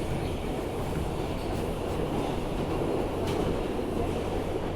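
R160B subway car running at speed, heard from inside: a steady rumble of wheels on rail, with a faint click about three seconds in.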